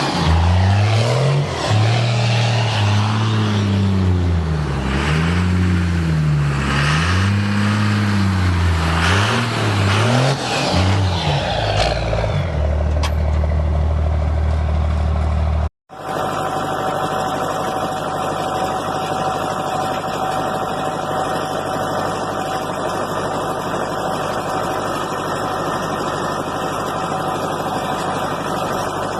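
An old truck's engine revved up and down about five times, then settling to a steady idle. After a brief dropout, an engine idles steadily with a constant whine above the running note.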